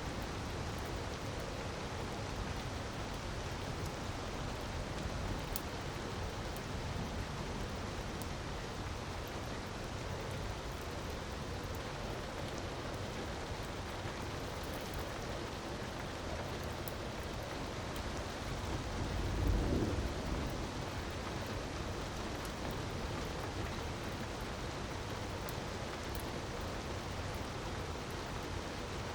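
Steady rushing of falling water, with sparse faint crackles of a wood fire. A low rumble swells briefly about two-thirds of the way in.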